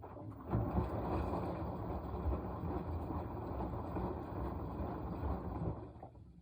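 Washing machine mid-wash: the drum turns and churns the wet laundry for about five seconds, starting about half a second in and stopping near the end, with a churning, sloshing noise.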